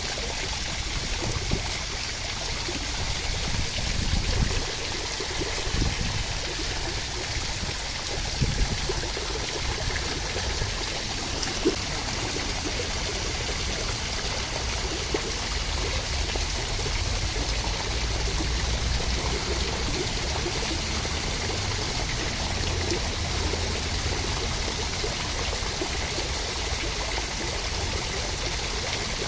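Steady rain: an even hiss of falling water with a low rumble underneath that swells and fades, and a few faint drop ticks.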